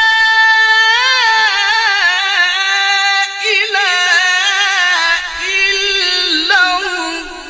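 A male Quran reciter's high voice holds one long melodic note, ornamented with wavering turns, without stopping for breath. The pitch sinks a little near the end.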